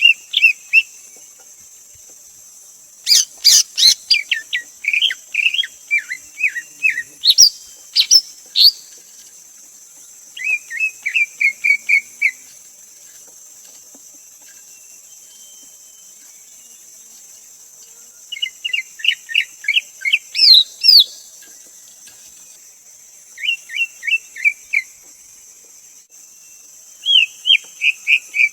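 Greater green leafbird singing in repeated bouts of quick, sweeping whistled notes, each bout a few seconds long and separated by pauses, with a few higher whistles mixed in.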